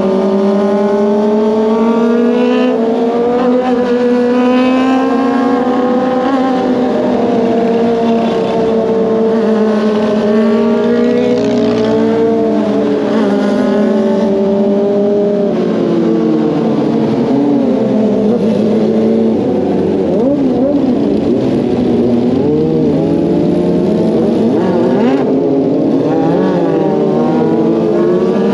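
Kawasaki ZX-25R's 250 cc inline-four engine running at low road speed in traffic, its pitch rising and falling with the throttle, dipping in the second half and climbing again near the end.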